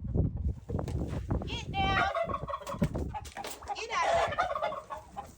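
Free-range poultry calling, with a rapid, rattling, gobble-like call about two seconds in and another call near four seconds.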